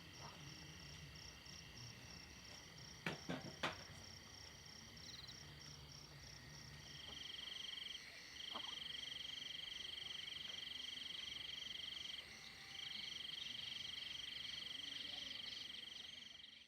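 Insect chorus: steady, fast high chirping of crickets, joined about seven seconds in by a louder, rapidly pulsing trill that breaks off twice and resumes. Three sharp clicks come a few seconds in.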